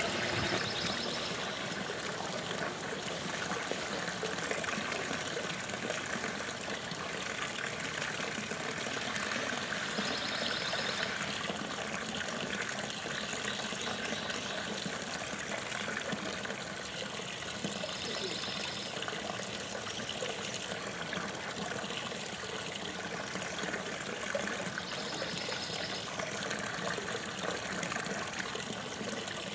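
Water from a homemade mortar-and-rock garden fountain, trickling and splashing steadily.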